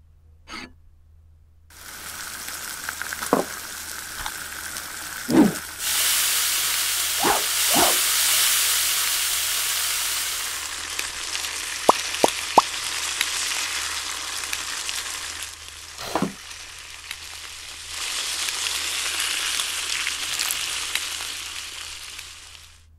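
Hot cooking fat sizzling in a pan, with a few soft knocks and clicks. The sizzle starts a couple of seconds in, grows louder around six seconds, eases off, swells again later and dies away just before the end.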